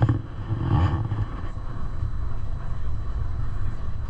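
Gornergrat electric rack-railway train running, a steady low rumble.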